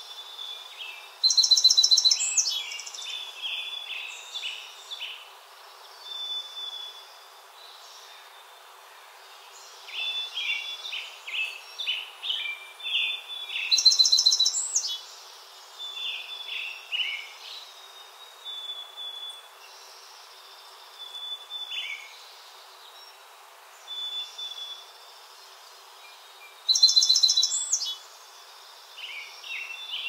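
Songbirds singing: a loud, high trilling phrase ending in a rising note comes three times, about twelve seconds apart, among shorter series of high chirping notes. A faint steady background hiss runs under them.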